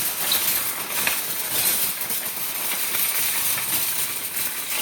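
Steady hiss of falling rain, with a few faint clicks.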